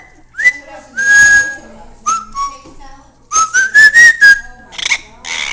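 Pet parrot whistling a tune: a string of clear whistled notes, many sliding up into the note, with a longer held note about a second in and a quick run of rising notes around three to four seconds in. A couple of short raspy sounds come near the end.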